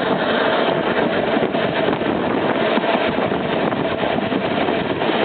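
Steady running noise of a Manx Electric Railway electric tramcar heard from on board: a continuous rumble with light rattling and a faint steady whine.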